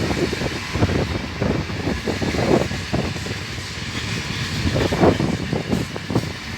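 Loaded freight train on the Carajás Railway running past, wagons rumbling with irregular low knocks from the wheels and couplings.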